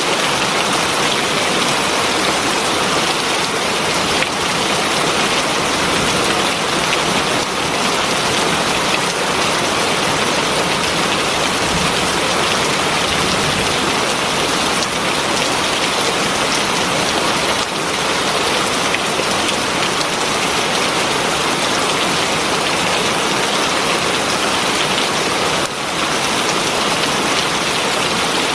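Heavy rain falling steadily, a dense even hiss of drops on surfaces with no breaks.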